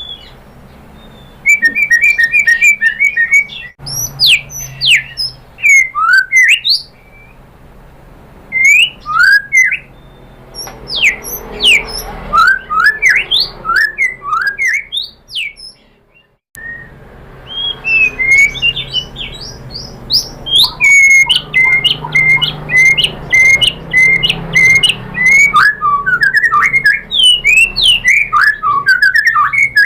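White-rumped shama singing a loud, varied song. It mixes fast runs of repeated notes, steep sweeping whistles and harsh chatter. The song stops briefly about halfway, then resumes.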